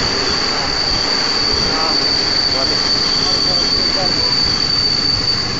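Train running along the track, heard from an open carriage window: rumble of wheels on rail with wind noise, and a steady high-pitched whine over it.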